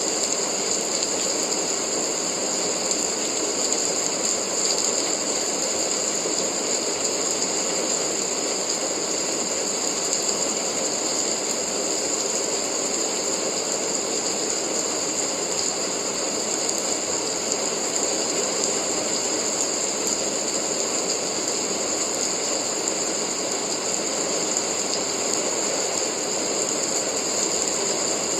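Steady rain falling, a dense, even, unbroken hiss with no change in level.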